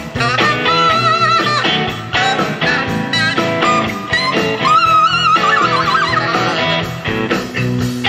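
A band playing a blues-rock song: guitar with a steady drum beat, and a melody line that wavers in pitch about a second in and again near the middle.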